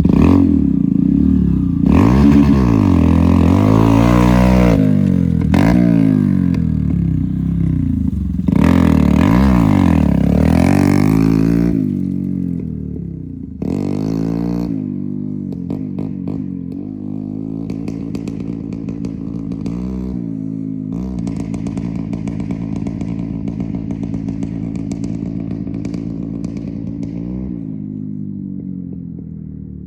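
Honda Monkey 125's single-cylinder engine through an Akrapovič titanium slip-on exhaust, revving up and dropping back again and again. About halfway through it becomes quieter and settles into steadier running at lower revs, with a couple of small blips.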